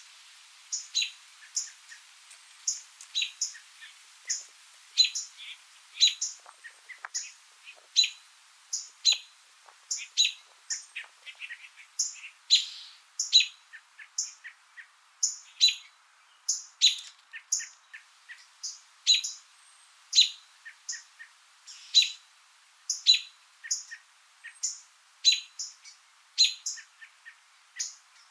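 Small birds chirping: short, high chirps repeated about once a second, with quieter chirps in between.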